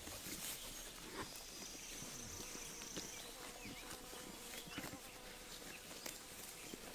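Sheep grazing close by: a stream of quick, irregular clicks and snaps of grass being torn and chewed. A steady insect-like buzz runs through the middle.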